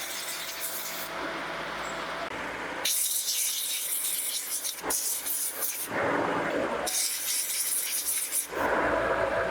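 Metalworking workshop noise: rasping and rubbing with a hiss, changing abruptly several times.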